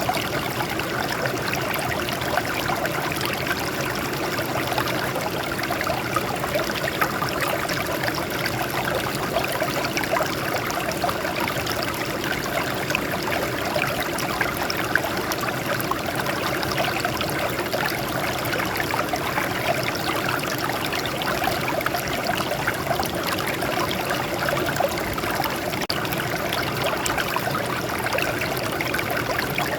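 Water flowing and splashing over rocks in a small stream, a steady trickling and babbling.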